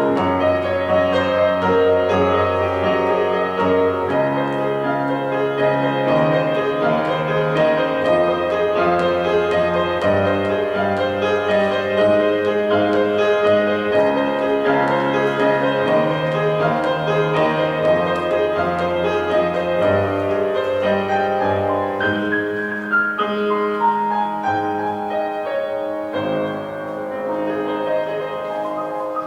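Piano playing a slow piece of full, sustained chords over held bass notes, with a descending run of notes about three-quarters of the way through, growing quieter near the end.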